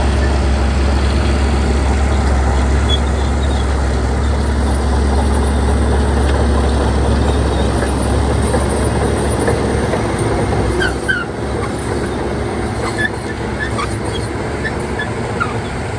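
Shantui bulldozer's diesel engine running hard with a deep, steady drone that eases a little about ten seconds in, with a few short high squeaks after that.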